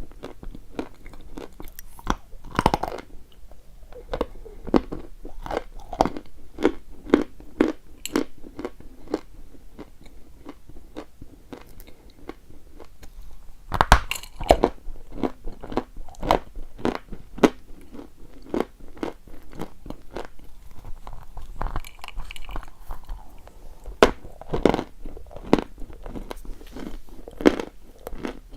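Close-up crunching as a person bites and chews edible chalk: a steady run of crunchy chews, one to two a second, with a few sharper, louder bites, one about halfway through.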